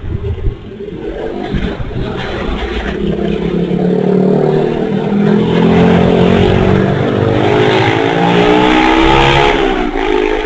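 Heavy vehicle engine, a bus or truck, running loud close by and growing louder over several seconds, its note shifting in pitch near the end before it fades.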